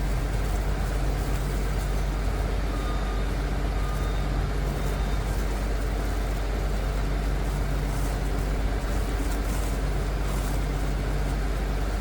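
Liebherr PR 746 crawler dozer's diesel engine running steadily at a constant note.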